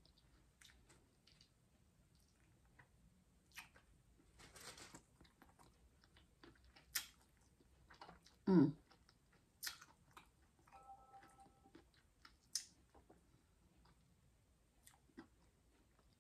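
A person chewing food close to the microphone, with scattered soft mouth clicks and smacks and a short voiced sound about eight and a half seconds in.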